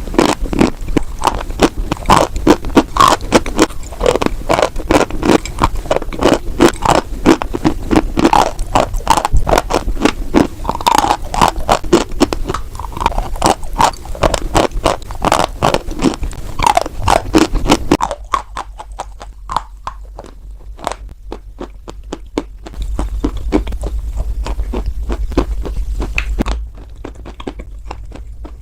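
White chalk crunching close to the microphone in a dense run of crackly crunches. A little past halfway the crunches turn quieter and sparser, with a low hum underneath for a few seconds near the end.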